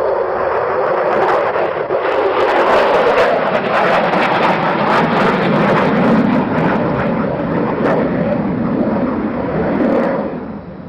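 Jet aircraft flying past, a loud roar with a crackle through it and a pitch that sinks as it goes by. The sound falls away sharply near the end.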